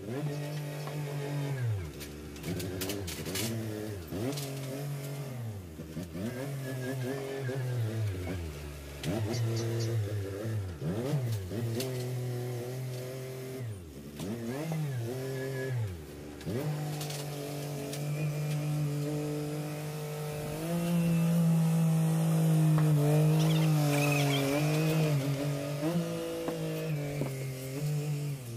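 Tractor engine running. Its pitch dips and recovers every couple of seconds through the first half, then holds steady and grows louder for the last stretch. A few short clattering knocks come through in the first few seconds.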